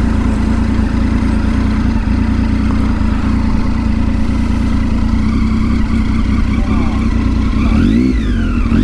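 Motorcycle engine running steadily under way, over a deep low rumble. Near the end its pitch briefly rises and falls.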